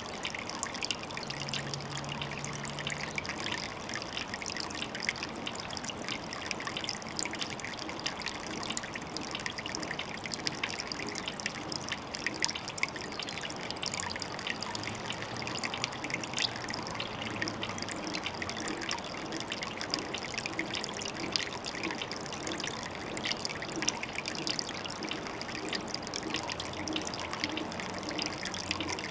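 Water trickling and dribbling steadily at a pond, a constant patter of small splashes.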